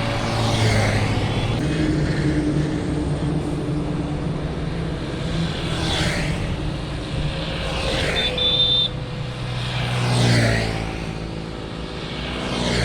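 Road traffic: a steady engine hum, with vehicles swelling and fading as they pass close by, three times in the second half. A short high beep sounds about eight seconds in.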